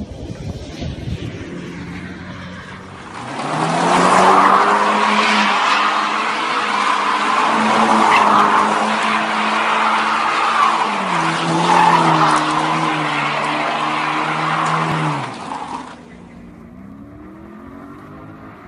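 A car engine held at high revs while the tyres squeal and skid, loud for about twelve seconds and cutting off suddenly. A quieter engine with a rising pitch follows near the end.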